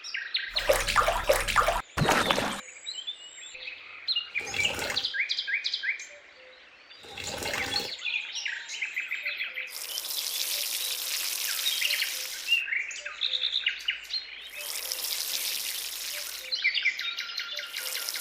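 Small birds chirping in repeated short phrases, with a few loud rough noises in the first half and three bursts of hissing noise lasting about two seconds each in the second half.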